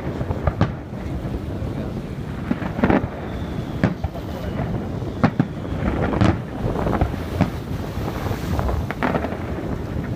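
A fireworks display: shell bursts bang out irregularly, roughly one a second, over a steady rumble from the show.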